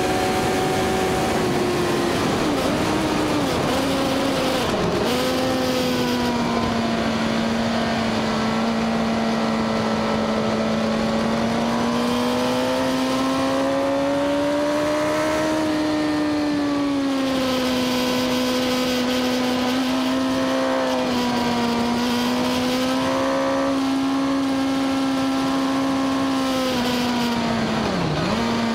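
Suzuki GSX-R1000 inline-four engine running hard on track, with wind rush. The pitch falls in steps in the first few seconds, then holds high and climbs slowly through a long stretch. It dips briefly a few more times, most sharply once near the end.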